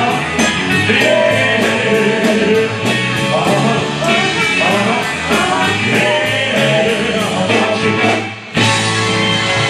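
Live rock and roll band with guitars, drums and singing, playing at full volume to a steady driving beat. About eight seconds in the sound drops out briefly, then the whole band comes back in at once.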